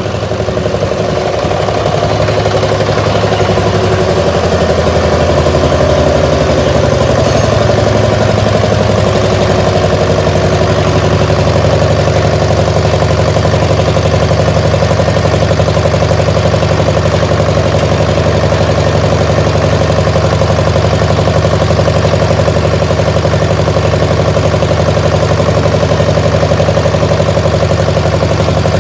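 Armstrong Siddeley two-cylinder diesel engine on a Massey baler running steadily, settling in its speed over the first several seconds. It runs unevenly in the owner's judgment, firing on only one cylinder: the second cylinder's injector is not kicking in, and that cylinder stays cool.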